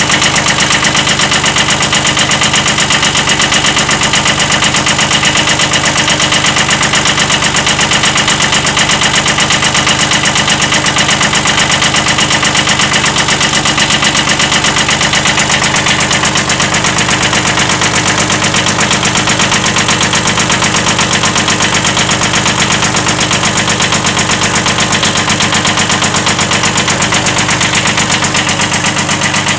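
Kubota D950 three-cylinder diesel in a 1979 Kubota B7100 compact tractor running steadily, with a slight rod knock.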